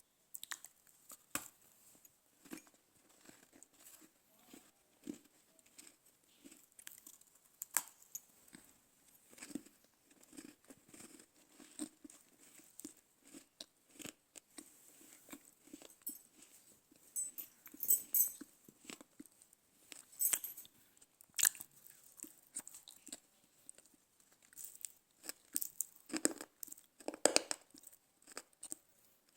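Dry chikni mitti (smooth clay from a clay cooking stove) being bitten and chewed close to the mouth: irregular crisp crunches and crackling, with many louder bites scattered through.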